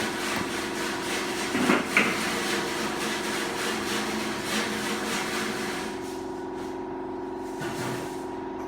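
Hand tools and metal parts being handled on a Hydramatic automatic gearbox during reassembly: scraping and rubbing with two sharp knocks about two seconds in, over a steady hum. The handling noise dies down about six seconds in, leaving the hum and one soft knock near the end.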